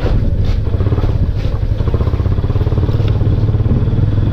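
Motorcycle engine running at a steady speed while the bike is ridden, with a few brief knocks in the first second and a half.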